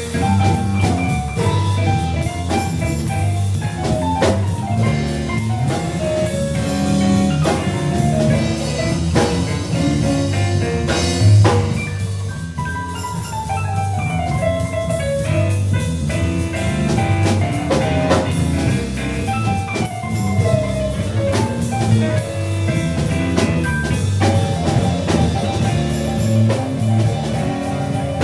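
A jazz band playing, with a drum kit keeping time under a pitched melodic line; a run of notes falls in pitch about twelve seconds in.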